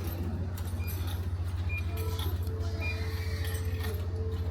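Ferry's engines droning steadily inside the ship, a deep hum that pulses quickly, with light clinks and rattles over it.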